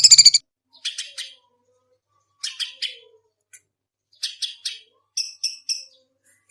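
Songbird calling: a loud, rapid trill cuts off just after the start, then the bird gives short groups of three sharp, high notes about every second and a half, the last group clearer and whistled.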